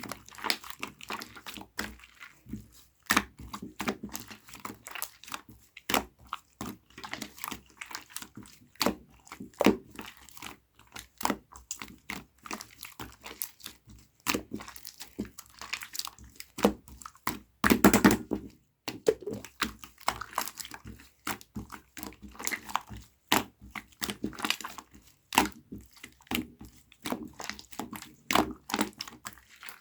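Slime being squished, pressed and poked by hand, giving a dense, irregular run of crackling clicks and pops, with a louder burst a little past the middle.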